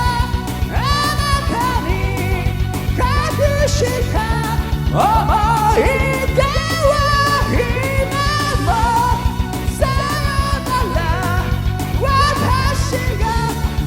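A man singing a heavy-metal song with heavy vibrato over a karaoke backing track with a fast, driving drum beat.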